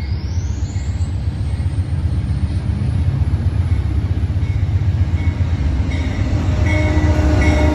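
Added sound effect of a full-size train running: a steady heavy low rumble, with a thin high whine that rises in pitch over the first second and then holds.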